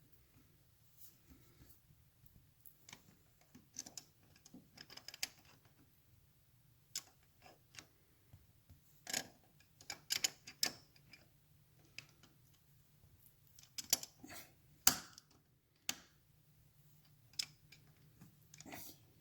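Irregular metallic clicks and taps of channel-lock pliers gripping and working a tab lock washer, bending its flap up against a motorcycle's front sprocket nut so the nut cannot come loose. A faint steady low hum runs underneath.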